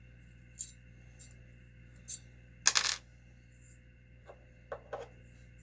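Small metal parts clinking as they are handled on a workbench during reassembly of a model nitro engine, with one louder jingling clatter about three seconds in and a few light clicks around it.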